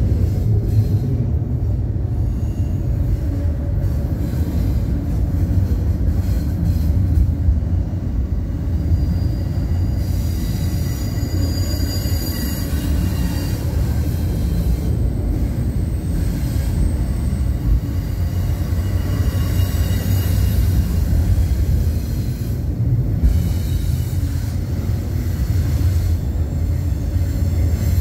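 Double-stack intermodal freight train rolling past a grade crossing: a steady low rumble of wheels on rail, with thin high-pitched squeals now and then.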